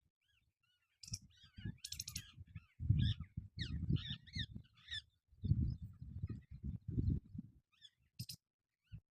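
Parrot giving a rapid string of short squawks and chirps, each rising and falling in pitch, with a few sharp clicks among them. Under the calls is an uneven low rumbling in bursts from about a second in until near the end.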